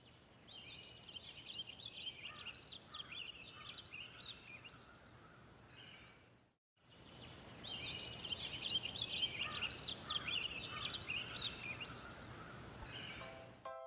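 Birdsong: quick chirping and warbling calls over a faint steady hiss, in two near-identical stretches split by a brief cut to silence about halfway through.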